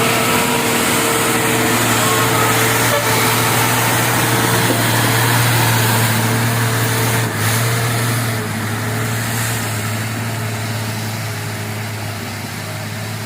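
Truck's diesel engine running steadily under load, a low even hum, which grows gradually fainter from about eight seconds in as the truck pulls through the soft stretch of road.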